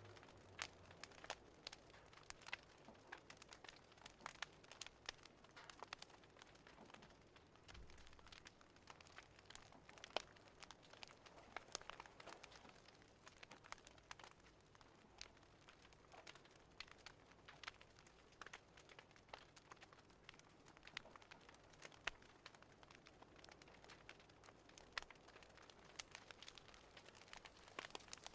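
Wood fire crackling faintly: irregular small pops and snaps over a soft hiss.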